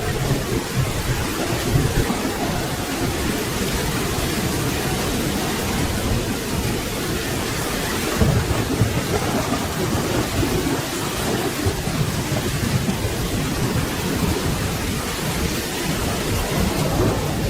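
Steady rain with rolling thunder. The low rumbles swell about two seconds in, again around eight seconds, and near the end.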